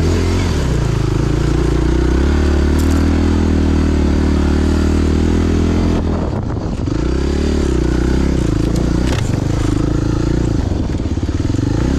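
Motorcycle engine running while riding. The revs drop briefly about six seconds in, then build again.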